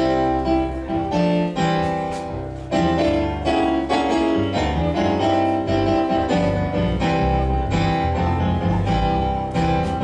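Piano music: sustained chords changing every second or so over a low bass line.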